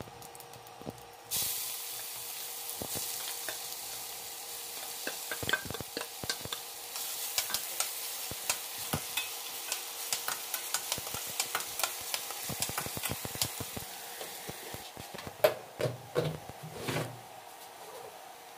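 Chopped onions sizzling in hot oil in a steel kadhai: the sizzle starts suddenly about a second in as they hit the oil. A steel spatula stirring them clicks and scrapes against the pan, with a few louder knocks near the end.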